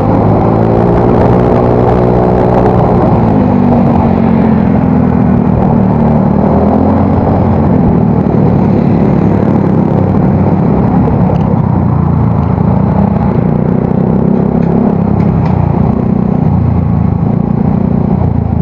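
Yamaha Mio Soul GT scooter's single-cylinder engine, through an aftermarket exhaust, running while riding. The revs rise and fall in the first few seconds, then hold steady.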